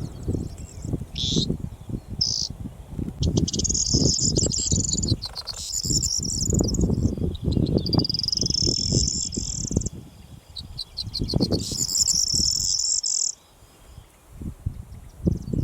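Corn bunting singing its dry, jangling song over and over, each phrase a quick run of ticks that speeds into a buzzy jingle. Strong wind buffets the microphone throughout.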